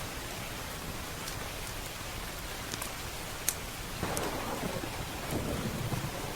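Steady heavy rain with a few sharp fireplace crackles. About four seconds in, a low roll of thunder swells up and keeps rumbling.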